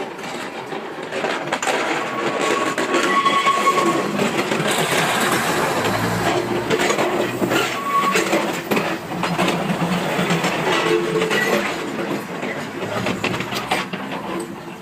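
Train running close by on its rails, wheels clattering with many sharp clicks.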